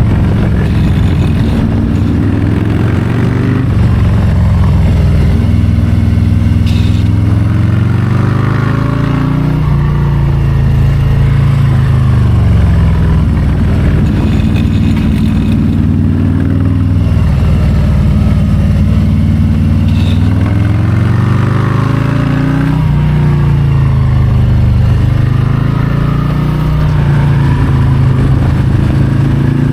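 2022 Harley-Davidson Low Rider ST's Milwaukee-Eight 117 V-twin running under way, the pitch climbing as it accelerates and dropping as it backs off, over and over.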